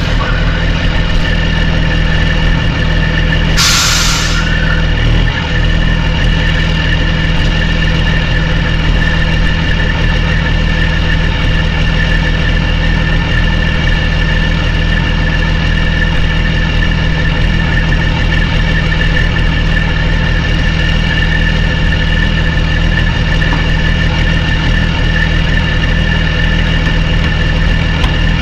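Heavy truck's diesel engine idling steadily, with a short hiss about four seconds in.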